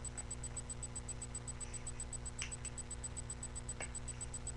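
Steady electrical hum with a rapid, even ticking from a webcam microphone's own noise, and a couple of faint brief rustles of paper being folded.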